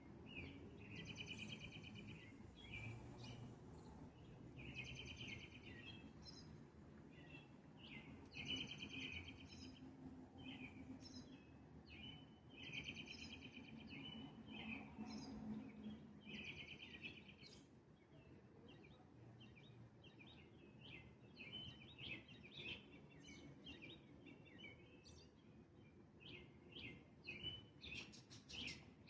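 A small bird singing, faint: a buzzy trilled phrase repeated about every two seconds, changing to a run of short, varied chirps in the second half, over a low background rumble.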